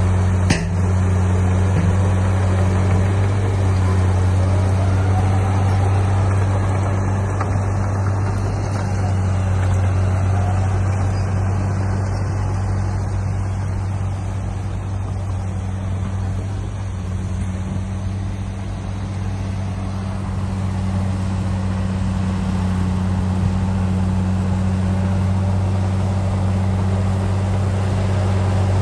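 Heavy diesel engine of a bulldozer running steadily with a deep drone, with a sharp click about half a second in. The engine eases off slightly in the middle and then builds again.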